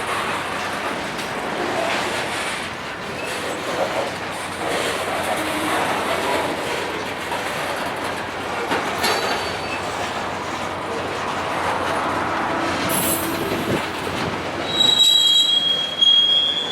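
Freight train cars rolling past on steel rails, with occasional knocks from the wheels. A high-pitched steel wheel squeal sets in near the end and is the loudest sound.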